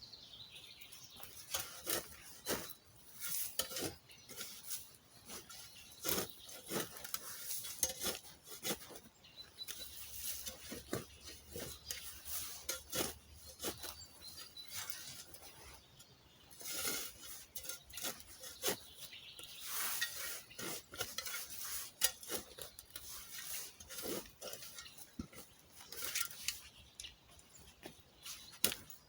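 Footsteps through dry forest undergrowth with twigs cracking, branches brushing and dead wood knocking, in an irregular run of sharp clicks and knocks.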